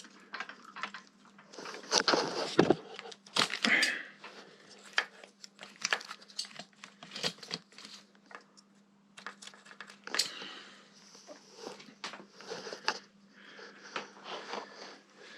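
Hands handling small parts and cloth: scattered light clicks and knocks with bouts of rustling and crinkling, over a faint steady hum.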